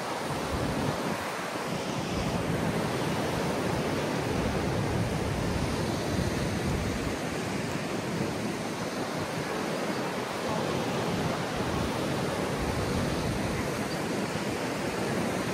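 Big ocean waves breaking on a beach: a continuous, even wash of surf that swells and eases slightly, with strong wind in the background.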